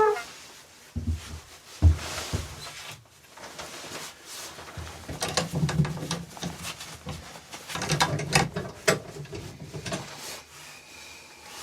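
Irregular knocks, clicks and rustling of things being handled in a small room, with two sharp thumps about one and two seconds in and busier clatter around the middle and later on.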